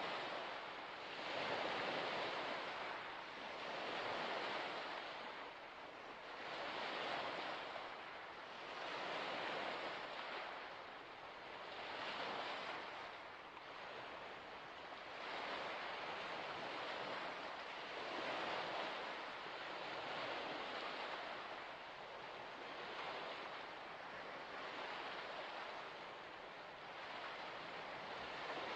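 Small waves washing against a shore, a rush of water swelling and fading about every two seconds.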